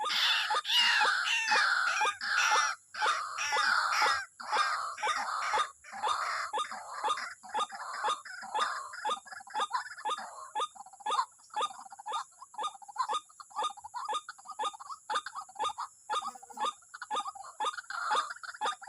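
White-breasted waterhen (wak-wak bird) calling: a long run of repeated harsh notes, rapid and jumbled at first, then settling into an even series of about three notes a second.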